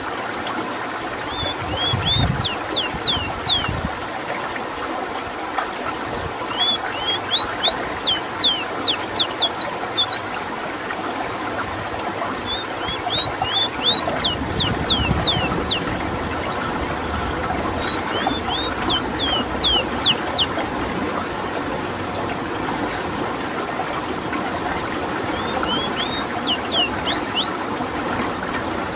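Ruddy-breasted seedeater (rowti) singing in repeated bouts of quick, high, down-slurred whistled notes, each bout lasting a few seconds with short pauses between, over a steady background hiss.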